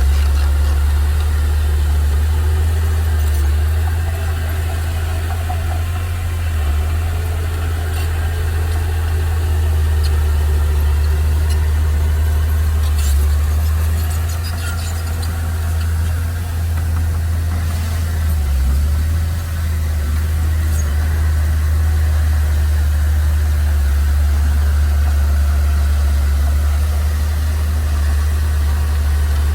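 Engine of a heavy earthmoving machine or truck running steadily with a deep, low hum, and a few faint clicks over it.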